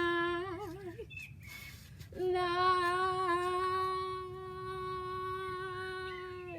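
A woman singing unaccompanied. Her last sung note is held and wavers in pitch until about a second in. After a short pause she sings one long, steady, wordless note.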